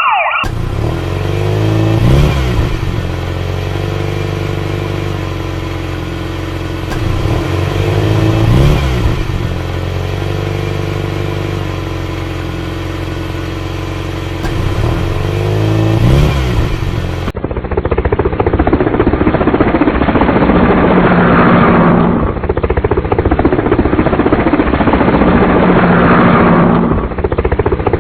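Vehicle engine sound effects: an engine running steadily and revving up briefly three times. At about two-thirds of the way through it cuts to a rougher, noisier engine sound.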